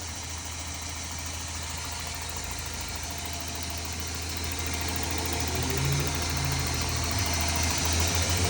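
Toyota 22RE 2.4-litre four-cylinder fuel-injected engine idling steadily and smoothly, growing louder over the last few seconds.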